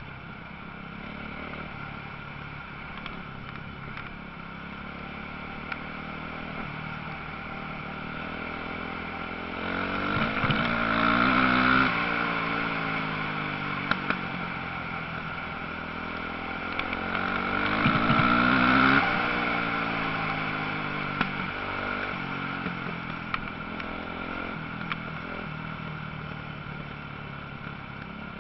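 Motocross motorcycles running on the track, engines revving and changing pitch under a steady drone of bikes further off. Twice the engines swell loud as bikes come close and then fade, about a third and two-thirds of the way through.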